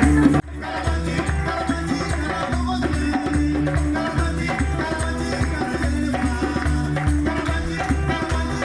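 Live afropop band music with a repeating bass line and shaker-like percussion. The sound drops out sharply for a moment about half a second in, then the music carries on.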